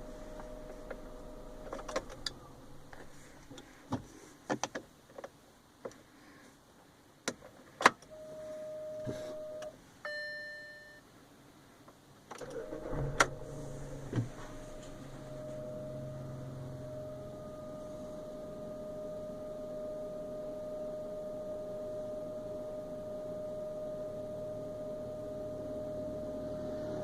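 Volkswagen up!'s electric fuel pump giving a steady high-pitched whine, the 'zunido' that the owner finds irritating and Volkswagen calls a characteristic of the car. Early on come scattered clicks and knocks and a short electronic chime; about halfway through the engine starts, and the whine then runs on steadily over the idling engine.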